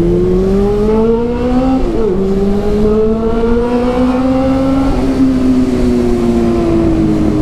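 Honda CB400's inline-four engine through an aftermarket Two Brothers exhaust, accelerating under way. It revs up, upshifts about two seconds in, pulls more slowly in the next gear, then the throttle eases off and the revs fall gradually through the second half.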